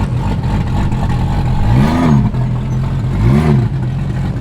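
Car engine idling with a steady rumble, blipped twice: the revs rise and fall about two seconds in and again a second and a half later.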